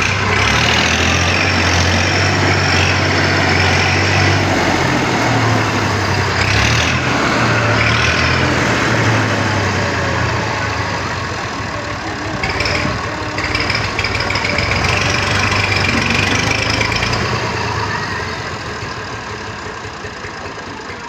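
Tractor engine running steadily, growing fainter over the last few seconds.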